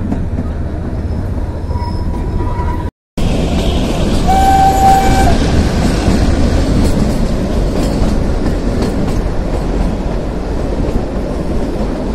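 Kalka–Shimla narrow-gauge train running, a steady rumble of the coaches on the track, cut off briefly about three seconds in. About four seconds in the locomotive's horn sounds once, a single steady note lasting about a second.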